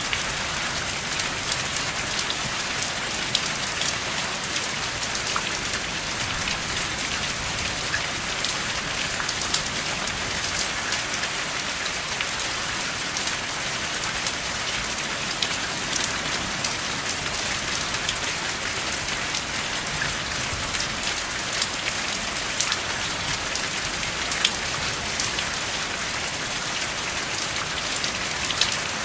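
Steady rain falling, an even hiss with many individual drops ticking through it, and no thunder.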